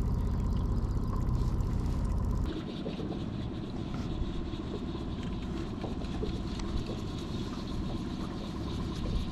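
Boat motor running steadily at slow trolling speed. About two and a half seconds in the sound changes abruptly to a quieter, hissier background of motor and water.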